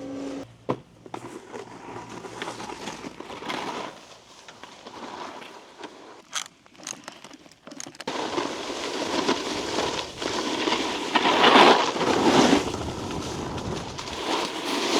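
Snowboard sliding over icy, crusty snow, the board scraping and crunching; the scraping grows louder from about halfway through.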